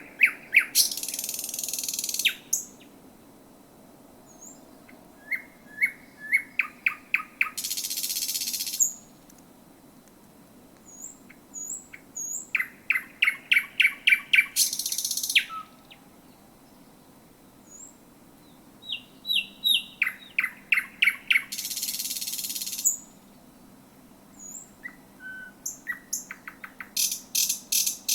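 Thrush nightingale singing at close range: about five phrases, each a fast run of sharp repeated clicking notes that ends in a loud harsh rattling burst, with pauses of a few seconds between phrases.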